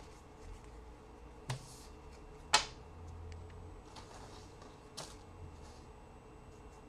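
Trading cards being handled: a few sharp clicks or snaps of card stock, the loudest about two and a half seconds in, with soft rustling between them.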